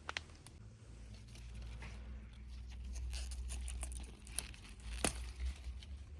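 Crinkling and rustling handling noises with scattered sharp clicks and taps, the loudest click about five seconds in, over a low rumble.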